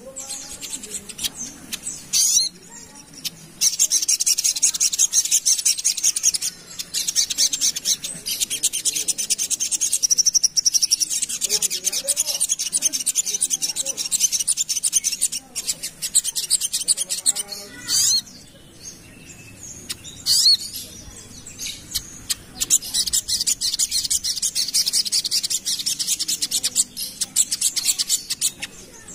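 Crimson sunbird (sogok ontong) singing a fast, tightly packed, high-pitched trilling song in long runs broken by short pauses.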